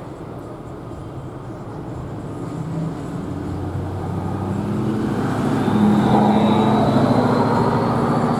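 A motor vehicle's engine approaching and passing close by, growing steadily louder and peaking about six seconds in.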